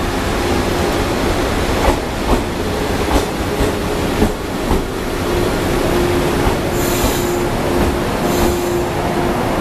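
Shinano Railway 115 series electric multiple unit pulling into the platform and slowing. Its wheels knock over rail joints in the first half, under a steady hum. Brief high-pitched wheel squeals come near the end.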